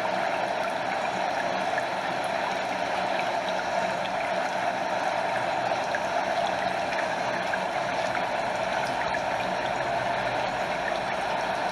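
Stream water flowing steadily, rushing and splashing over a small waterfall, with gentle lapping and many small droplet splashes close by.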